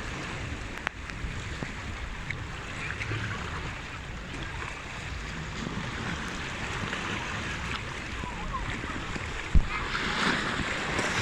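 Sea waves washing and surging, with wind on the microphone. A single sharp knock comes about nine and a half seconds in, and the wash swells just after it.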